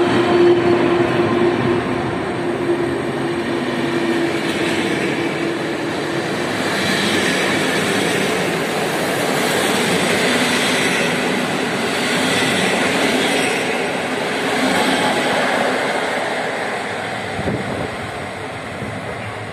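Locomotive-hauled passenger train pulling out past the platform. A steady hum fades over the first few seconds. The coaches then roll by with steady wheel-and-rail noise and clatter, fading toward the end as the train draws away.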